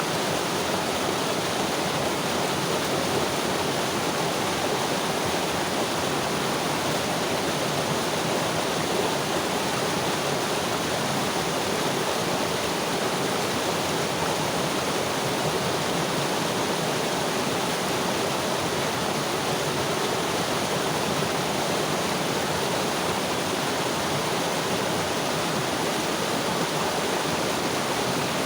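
Mountain river flowing over rocks, a steady rushing with no breaks or changes.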